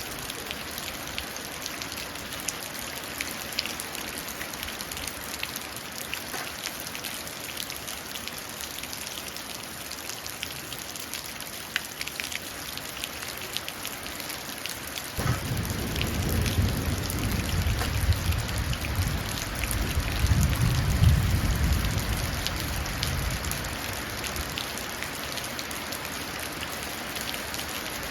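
Steady rain pattering and dripping into a puddle. About halfway through a low rumble of thunder sets in suddenly, swells, and rolls on for several seconds before fading back under the rain.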